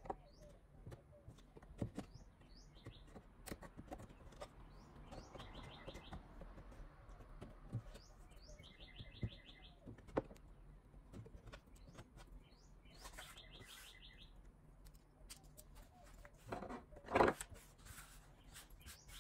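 A small songbird chirping again and again, short downward chirps alternating with brief buzzy trills. Under it are scattered light clicks and knocks of a utility knife trimming a plastic edge strip on a particleboard drawer, and a short louder scrape near the end as a hand sweeps sawdust across the bench.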